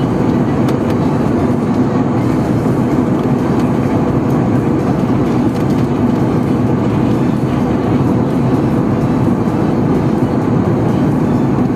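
Passenger jet's engines heard as a steady drone from inside the cabin in flight.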